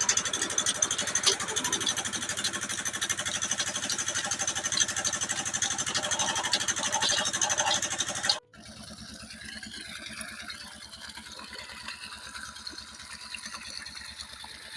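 Old Petter stationary diesel engine running with a rapid, steady beat. The sound cuts off abruptly about eight seconds in, leaving only a much fainter background.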